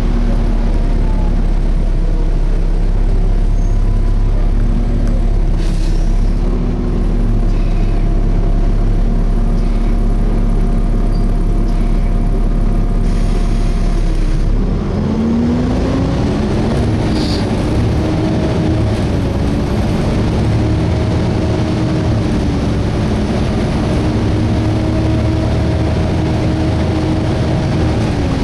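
Volvo B7TL double-decker bus's six-cylinder diesel engine heard from on board, running steadily, then rising in pitch about halfway through as the bus pulls away and gathers speed. The engine cooling fan runs without its usual screech, and a faint high whine rises and falls in the second half.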